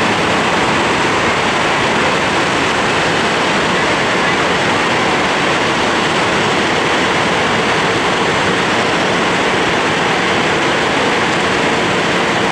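Steady rushing roar of an Airbus A340-300's four CFM56 jet engines at taxi power, holding level without any change in pitch.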